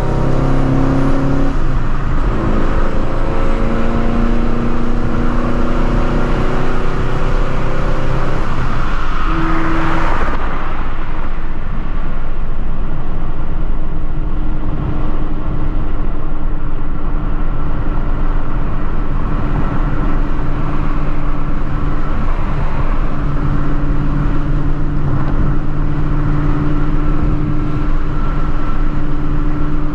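Procharger-supercharged Shelby GT350's 5.2-litre flat-plane-crank V8 running at highway speed, over road and tyre noise. The engine note shifts about ten seconds in, then settles into a steady drone.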